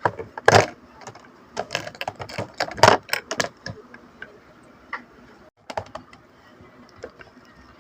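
Plastic toy packaging and small parts being handled: a quick run of crinkles and clicks, thinning out to a few scattered clicks in the second half.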